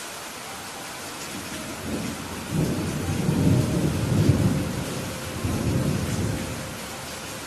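Steady rain hissing, with a low rumble of thunder swelling about two seconds in, loudest in the middle and dying away near the end.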